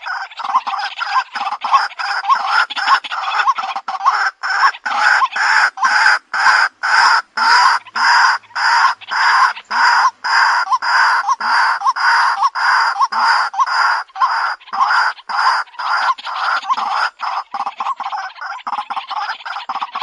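White-breasted waterhen calling: a rapid, unbroken series of harsh croaking notes at about three a second, louder through the middle and softer near the start and end.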